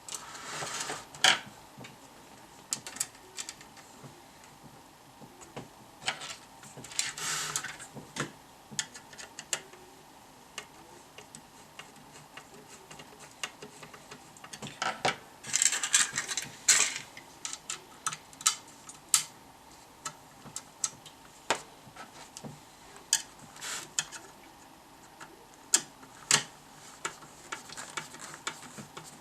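Irregular clicks, taps and short scraping rustles of small tools and metal parts being handled, with a few longer scrapes about a quarter of the way in and past the middle.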